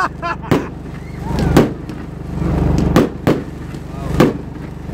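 Aerial fireworks bursting: five sharp bangs spaced irregularly, two of them close together about three seconds in. A steady low hum runs underneath.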